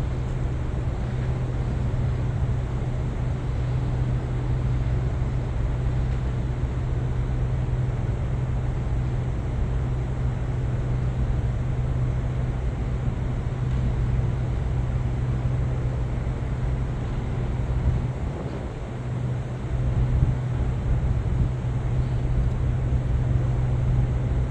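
Steady low hum of ship machinery over a constant rushing background, dipping briefly about eighteen seconds in.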